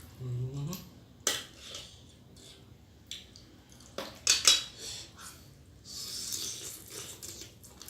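Utensils clinking and scraping against dishes: a few sharp clinks about a second in, a louder cluster about four seconds in, and a stretch of scraping around six seconds in.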